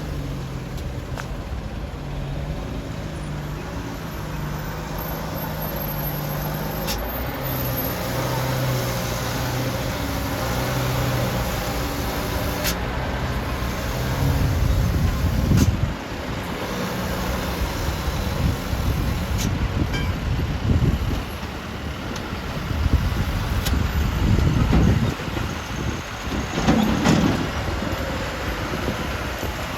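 Mitsubishi Canter truck's diesel engine running under a heavy overload of sand, its engine note holding and then stepping in pitch through the first half. Uneven low rumbling and a few sharp clicks take over in the second half.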